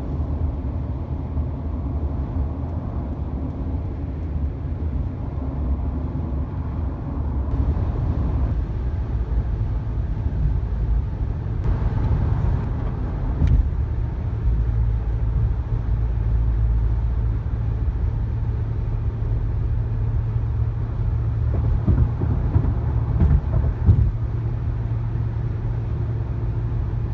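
Road and tyre noise inside a Honda Odyssey minivan's cabin at highway speed: a steady low rumble. A few short thumps from the tyres going over bumps, one about halfway and a cluster near the end.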